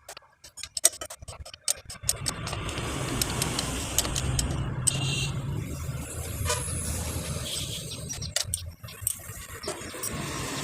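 A quick run of sharp metallic clicks of hand tools during work on the cylinder head's studs. From about two seconds in, a steady low rumble of a road vehicle running, with an occasional clink.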